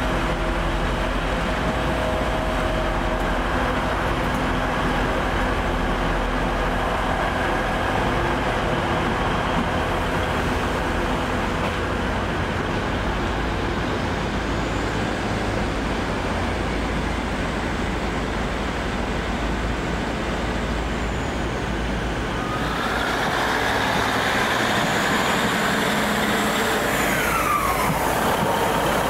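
Trains at a railway station platform: a steady engine hum with several low tones that fade after the first few seconds, then, about 23 seconds in, a louder whine from a train on the move, rising and then falling in pitch near the end.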